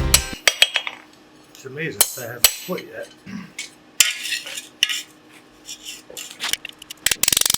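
Steel tools and stock clinking and clattering as they are handled at the forge: scattered sharp metallic clicks and short rattles, with a quick run of rattling clicks near the end.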